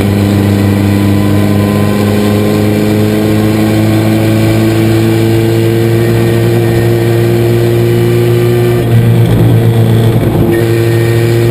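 1976 Chevrolet LUV race truck's engine pulling hard under acceleration, heard inside its stripped cabin, its note climbing slowly. About nine seconds in the note briefly breaks up and gets louder, then settles back to a steady pitch.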